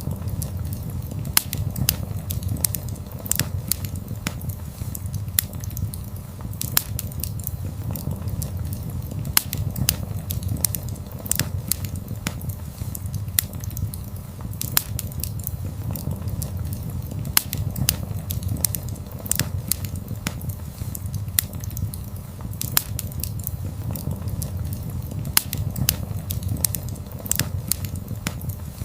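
Wood fire burning: a steady low rumble of flames with frequent sharp crackles and pops at irregular intervals.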